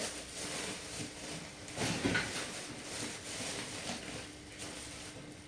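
Packing material being handled while unpacking: irregular rustling and crinkling of styrofoam and plastic wrapping, loudest about two seconds in.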